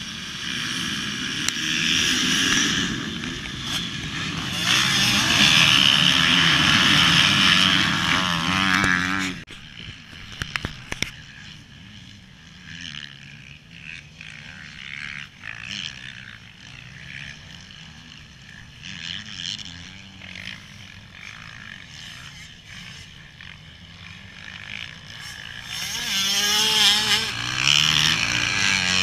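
Motocross motorcycle engine revving hard with a wavering pitch, loud for the first nine seconds, then dropping sharply to a fainter, more distant engine sound. The revving grows loud again near the end, rising and falling in pitch.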